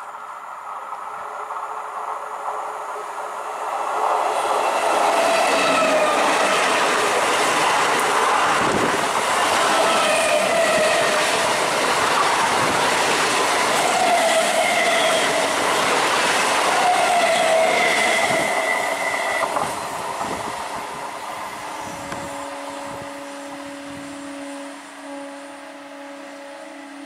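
An Indian Railways EMU local train passes close by, its wheels clattering on the rails with short whining tones over the clatter. The sound swells about four seconds in and fades after about twenty. Near the end a train horn sounds as one steady two-tone blast with a brief break.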